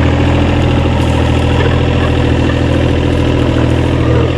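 Engine idling steadily with a low, even drone.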